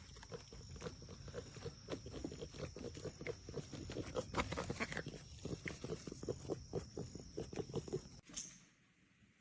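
A small dog panting in fast, short breaths close by. The panting stops abruptly near the end.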